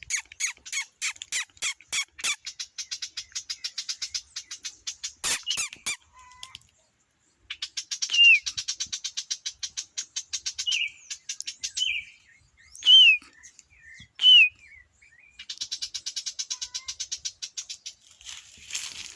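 A songbird calling: fast runs of sharp repeated notes, about four or five a second at first, then dense high trills broken by a few short falling whistles, with a brief pause about seven seconds in. Two sharp clicks about five seconds in.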